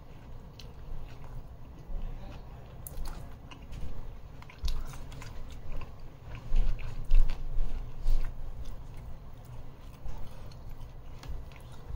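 Close-up eating sounds of a peri peri chicken pita wrap being bitten and chewed, with many small irregular clicks and soft thumps. The chewing is loudest about halfway through.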